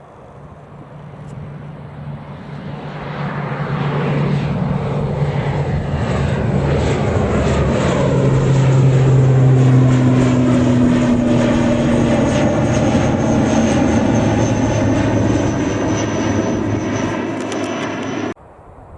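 Airliner's engines passing close by: the noise swells over the first few seconds, peaks about halfway, and holds loud with a high whine slowly falling in pitch, then cuts off suddenly near the end.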